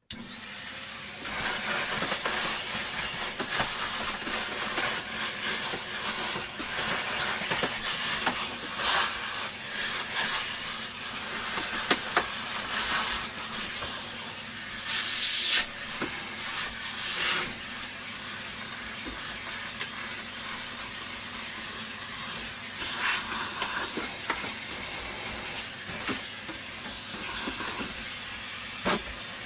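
A bench vacuum cleaner switching on and running with a steady rushing hiss and a faint high whistle, its nozzle sucking dust out of a vacuum cleaner's plastic body, the rush surging louder several times as the nozzle moves.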